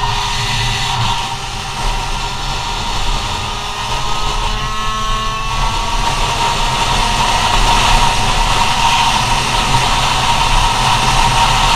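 GoPed scooter's small two-stroke CR70 engine running hard under way. Its pitch rises as it accelerates about halfway through, then holds at a high steady whine.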